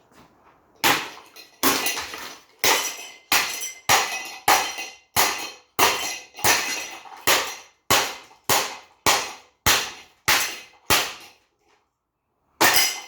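Repeated heavy blows smashing an SMC-Wattmaster ceiling fan: about sixteen sharp clanging strikes, roughly one and a half a second, each ringing briefly. After a short pause near the end comes one more strike.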